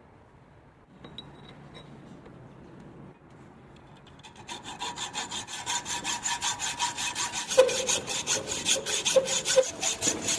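Metal being worked by hand with a hacksaw or file: rapid, even rasping strokes, about five a second, begin about four seconds in and grow louder, with a faint metallic ring under them.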